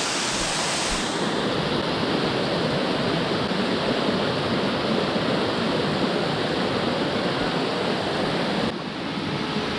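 Running water rushing steadily, a stream or river flowing nearby.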